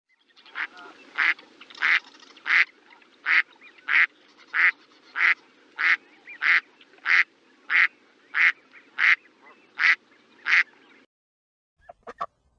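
A duck quacking: a steady series of about sixteen short quacks, roughly one and a half a second, that stops about eleven seconds in. A few brief clicks follow near the end.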